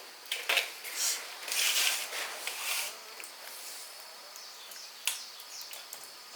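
A few light knocks and short scraping sounds in the first three seconds, with one more sharp knock about five seconds in, of timber being handled during log cabin wall building.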